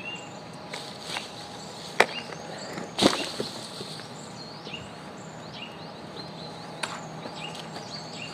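Two sharp knocks, the loudest about two and three seconds in, with a few fainter taps, over repeated short high chirps from small birds.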